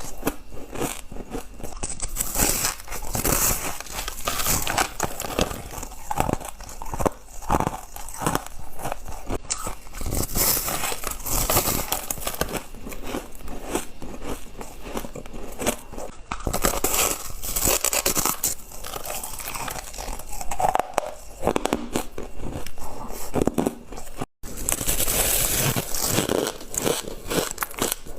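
Ice being bitten and chewed close to the microphone: a continuous run of sharp, brittle crunches and crackles, broken by a brief gap near the end.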